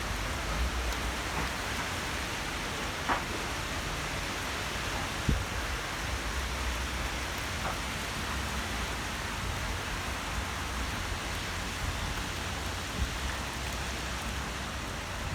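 Heavy rain falling steadily in a strong thunderstorm, a constant hiss with a low rumble of wind underneath and a few faint taps.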